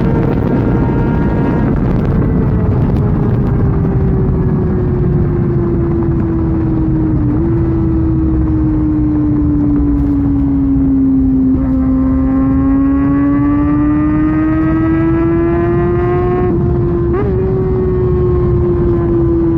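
Kawasaki ZX-6R's inline-four engine through an SC-Project exhaust at highway speed, under heavy wind rush. The engine note sags slowly for about ten seconds, then climbs again, with two brief blips along the way.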